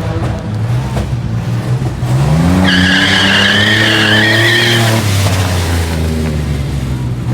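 A car's engine revs up and its tyres squeal for about two seconds in a short burnout. The revs then fall back as the squeal stops.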